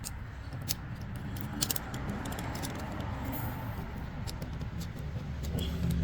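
A low, steady engine rumble with scattered light metallic clicks and clinks.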